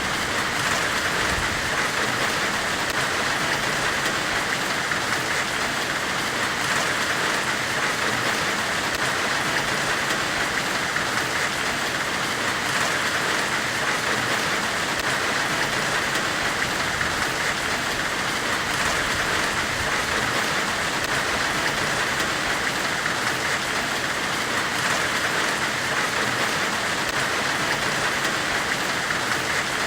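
Steady, unbroken hiss of white noise, rain-like, with its strongest part in a band in the upper middle of the range. It keeps an even level throughout, with only faint scattered crackle.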